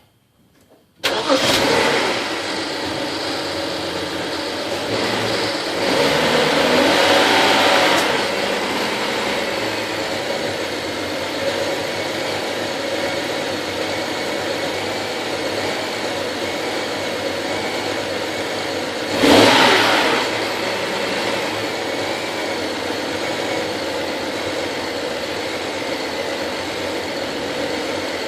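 BMW E60 535i's 3.0-litre twin-turbo inline-six starting about a second in and then idling steadily, with a longer rise in engine sound at around six to eight seconds and one short rev blip at about nineteen seconds. The title presents it as an engine noise, but no fault is named.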